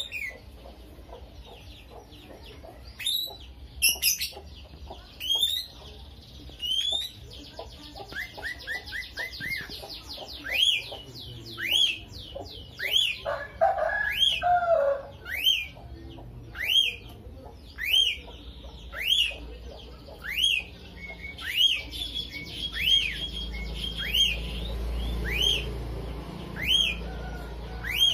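Lovebird calling: sharp, high chirps that repeat about once a second, with a fast run of short notes around eight seconds in and a lower, harsher call around thirteen seconds in.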